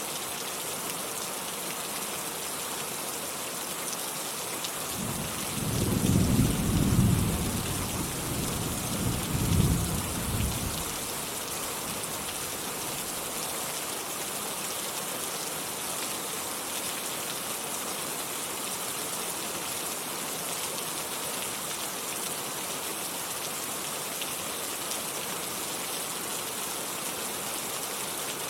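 Steady rain falling, with a roll of thunder about five seconds in that rumbles for some six seconds, swelling twice before it fades back into the rain.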